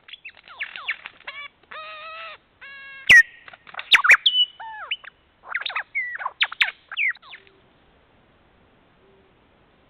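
Birdsong in a quick, varied series: down-slurred whistles, buzzy nasal notes and two sharp loud cracks. It stops about seven and a half seconds in, leaving near quiet.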